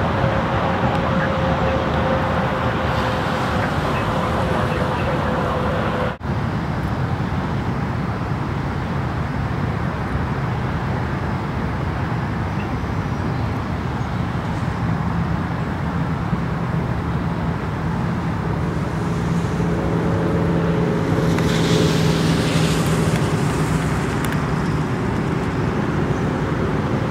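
Steady road vehicle and traffic noise, with a short break about six seconds in. A low engine hum with a higher tone above it comes up around the middle and fades near the end.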